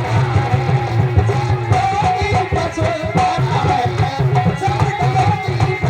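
Devotional kirtan music played between sung lines: a melodic instrument line over a steady hand-drum rhythm.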